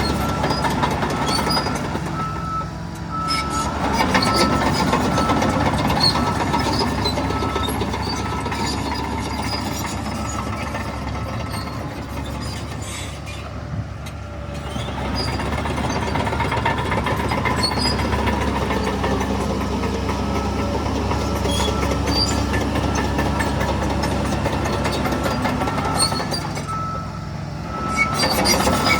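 Heavy diesel earthmoving machinery, a bulldozer, working under load with its engine rising and falling. A reversing alarm beeps steadily for the first few seconds and again near the end.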